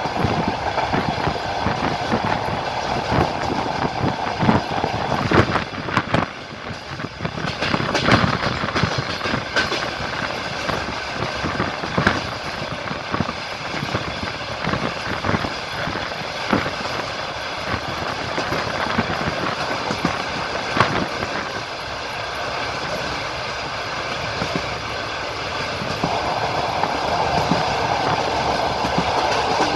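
Passenger train wheels clattering along the track: a steady running rumble with irregular sharp clacks over the rail joints. A steady mid-pitched hum fades about six seconds in and comes back near the end.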